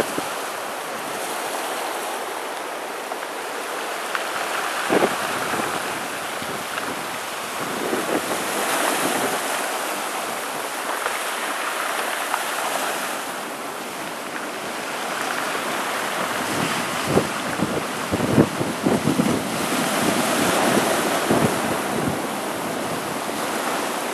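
Hurricane-driven storm surf washing over a rocky shore, a continuous rush that swells and eases every few seconds. Wind buffets the microphone in gusts, most heavily a little past the middle.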